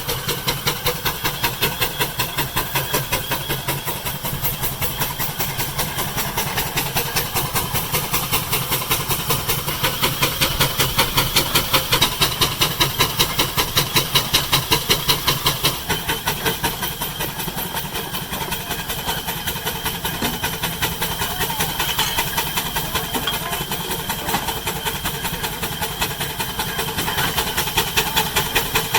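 Homemade steam tractor's engine running under load as it drives a straw baler, its exhaust beating in a fast, even rhythm of chuffs over a steady hiss of steam. It swells somewhat louder in the middle and again near the end.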